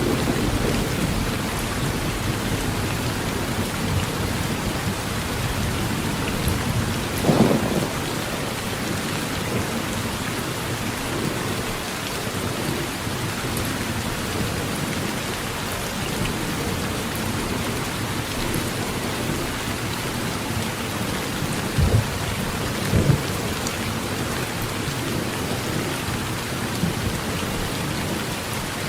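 Heavy rain falling steadily on a tin roof, with thunder rumbling low near the start. Three louder, short hits stand out: one about seven seconds in and two close together late on.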